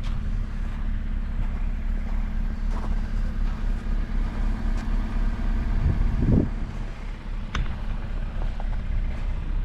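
A vehicle engine running steadily with a low rumble, with a brief louder swell about six seconds in and a sharp click a little later.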